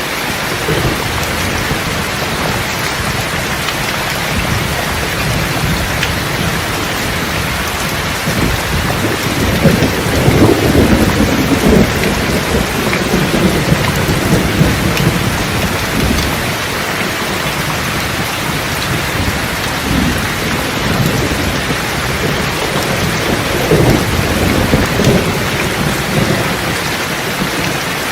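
Steady rain with thunder rumbling low and long, swelling loudest about a third of the way in and again, more softly, past the two-thirds mark.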